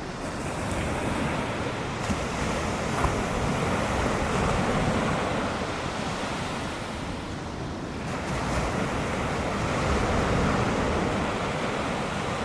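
Ocean surf breaking on a beach, a steady rush of white water that swells and eases twice.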